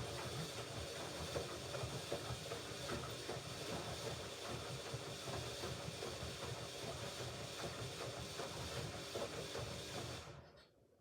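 Hoover Ecologic Computer Washer 1300 washing machine on its rinse programme: a steady rush of water with a low hum. It cuts off near the end.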